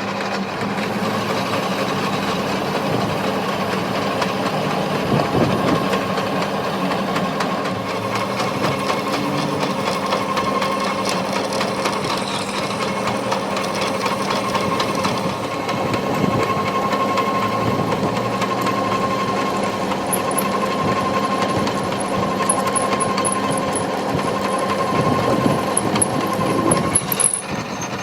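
A workshop machine running steadily, a noisy mechanical sound with a faint steady whine, until it drops away shortly before the end.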